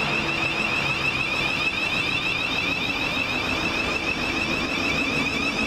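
Electric multiple-unit train at a station platform: a steady, rapidly pulsing high-pitched tone over a low hum.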